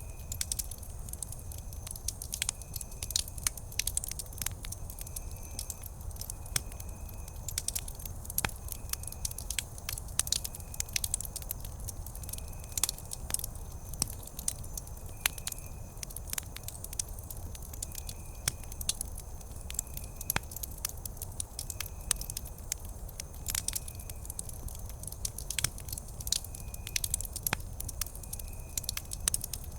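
Wood campfire burning steadily with a low rumble and frequent sharp, irregular crackles and pops. A faint short high-pitched chirp repeats every second or two.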